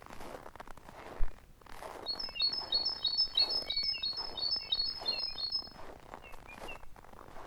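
A small songbird sings a fast run of high, chirping notes lasting about three and a half seconds, with a few single chirps around it. Under it comes a soft, regular crunch of footsteps in snow, about one a second, and a single sharp thump a little after a second in.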